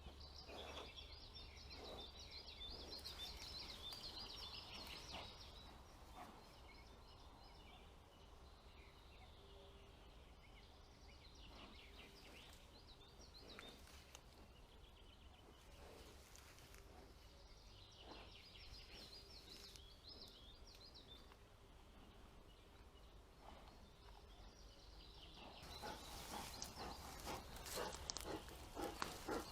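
Faint forest ambience: small birds singing in short bursts, with a few soft rustles. Near the end, close rustling and scraping grows louder.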